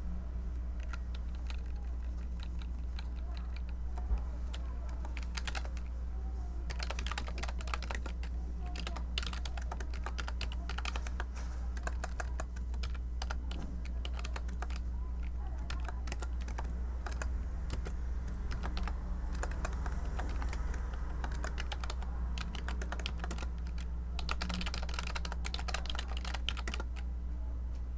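Typing on a computer keyboard: irregular keystroke clicks, with fast dense runs about a quarter of the way in and again near the end and sparser typing between. A steady low hum runs underneath.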